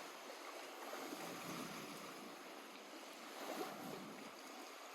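Small waves lapping and splashing gently at a lake's edge, an uneven watery wash with no engine tone.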